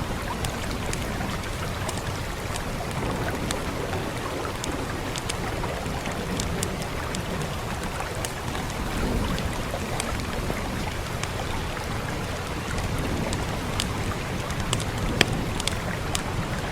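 Steady rain with a low rumble beneath, over which a fire crackles in scattered sharp pops, one louder pop near the end.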